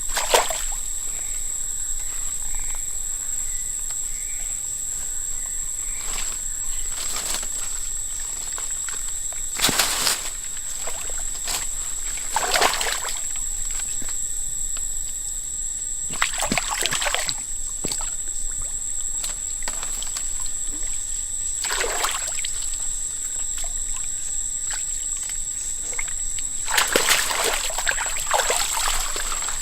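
Water splashing and sloshing in short bursts a few seconds apart, the longest cluster near the end, over a steady high-pitched whine.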